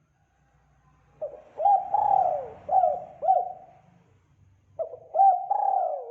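Spotted dove cooing: two phrases of short, sharply rising-and-falling coo notes, each phrase with one longer drawn-out note. The first phrase starts about a second in, the second near the end.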